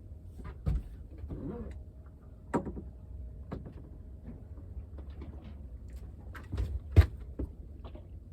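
A few scattered knocks and clicks of fishing tackle being handled aboard a boat, the loudest about seven seconds in, over a low steady rumble.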